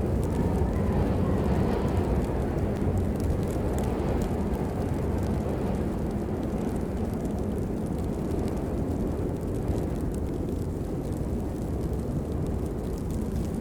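Steady heavy rain with a deep, continuous low rumble under it.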